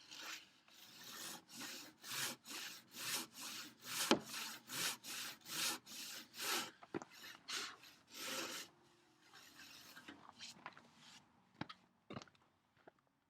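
Hand saw cutting through a thick wooden workbench leg, in steady even strokes about two a second. The sawing stops about nine seconds in, followed by a few faint scrapes and two light taps.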